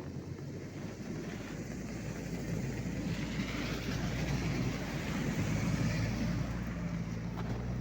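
All-terrain vehicle with a Toyota 1NZ-FE 1.5-litre four-cylinder engine driving under load over rough ground. The engine hum is joined by a hiss that grows louder through the middle and eases near the end.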